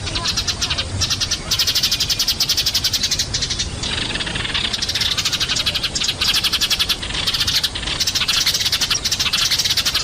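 Eurasian tree sparrows chattering, a dense stream of rapid chirps, many a second, with a few brief lulls. It is a noisy flock call used as a lure to bring sparrows down.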